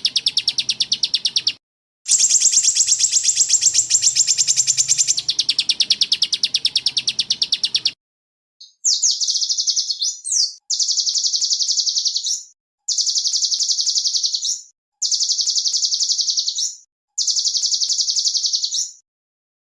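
Recorded songbird trills: fast, rattling runs of rapidly repeated high notes. One trill ends about a second and a half in and a longer one runs for about six seconds, then after a short pause come five shorter, evenly spaced bursts, each starting and stopping abruptly as in an edited loop.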